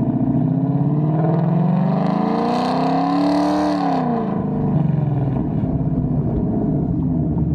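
Ford Mustang GT's V8 with aftermarket headers and exhaust accelerating: the exhaust note climbs in pitch for about two and a half seconds, peaks, then drops as the throttle is lifted, settling back to a steady cruise.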